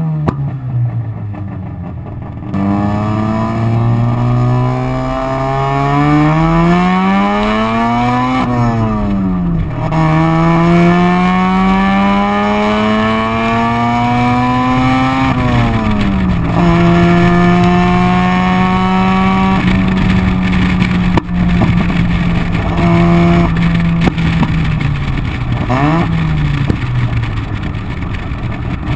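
Mazda RX-7's ported 13B rotary engine with a loud exhaust, accelerating through the gears. The revs climb twice, dropping sharply at each shift, then hold steady at cruise before falling off near the end.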